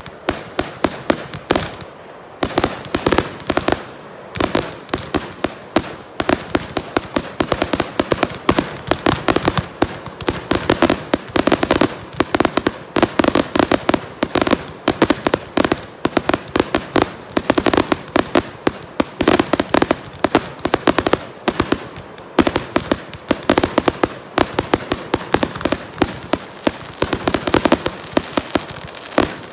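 Fireworks going off in a dense, continuous barrage: rapid sharp bangs and crackles, many a second, with no break.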